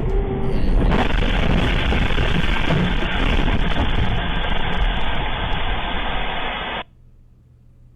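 Loud, muffled dash-cam audio from a truck: a dense, steady rumble and road noise that cuts off abruptly near the end.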